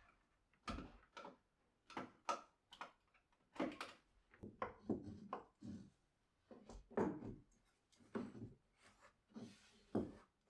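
Irregular light knocks and clatter of objects being handled and set down, about a dozen over the stretch, with short rubbing sounds between them; the sharpest knocks come about seven and ten seconds in.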